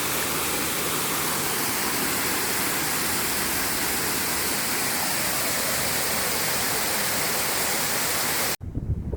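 Waterfall in spate, a steady loud rush of falling water heard close up. About eight and a half seconds in it cuts off abruptly, replaced by wind gusting against the microphone.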